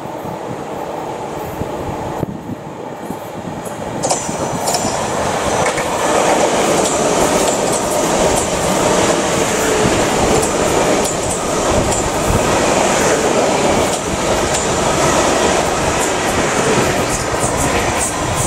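South Western Railway Class 450 Desiro electric multiple unit passing on the rails with clicks from the wheels. The sound swells sharply about four seconds in and stays loud as the long train of carriages goes by.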